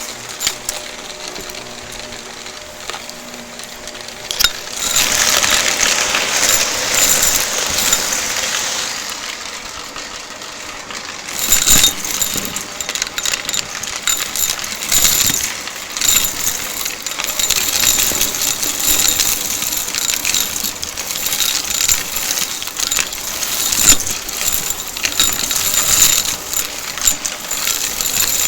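Shark vacuum cleaner sucking up crunchy debris: a dense crackling and rattling of bits snapping and clattering through the head and hose. It is quieter at first, gets loud about four seconds in, eases off briefly in the middle, then crackles loudly again for the rest.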